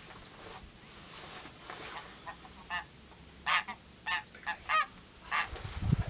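Wild birds calling: a series of about seven short, harsh calls starting around two seconds in, with the calls coming in quick succession. No low bittern boom is heard.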